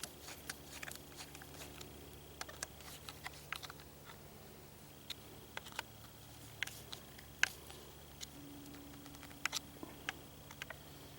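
Faint, irregular clicks and taps of screws, a screwdriver and small metal parts being handled while a fuel pump is screwed onto an Evinrude outboard, over a faint steady hum.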